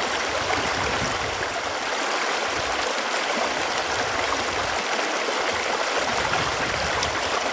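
Running water flowing steadily, an even, unbroken rushing.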